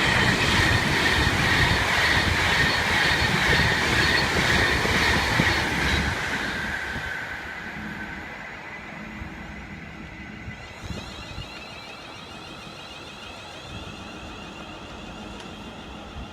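A train passing at speed, loud at first with a rumble and a high whine that falls slightly in pitch, then fading away after about six seconds.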